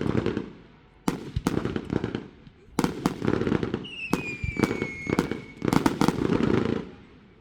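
Fireworks going off in several volleys of sharp bangs and crackling pops, each with a low rumble. Midway a whistling firework sounds one long whistle that slides slowly down in pitch.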